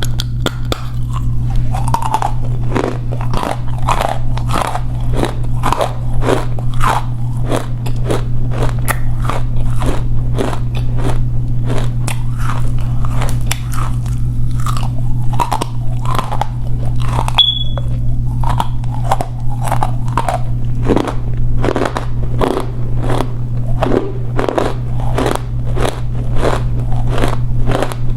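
Edible clay being bitten and chewed close to the microphone: a steady run of dry crunches, about two a second, over a constant low hum.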